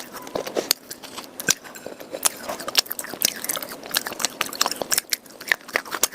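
A person biting and chewing crunchy pieces of dry red clay (khawa) and chalk close to the microphone: a rapid, irregular run of sharp crunches and cracks.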